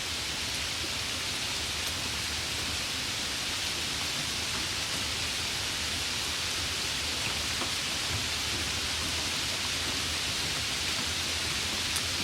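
Steady rain falling: an even, unbroken hiss with an occasional faint drop tick.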